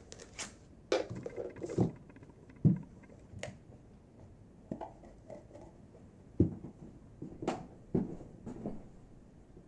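Handling noise: irregular knocks and short clatters of small hard objects being picked up, moved and set down on a surface, about half a dozen sharper knocks spread unevenly.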